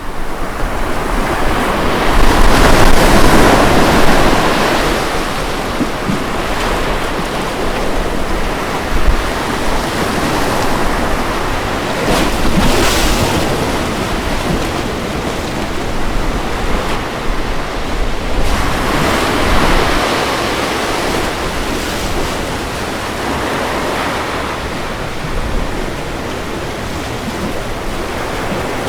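Ocean waves breaking and washing onto a beach: a continuous rush of surf that swells louder about three seconds in, again around thirteen seconds and near twenty seconds.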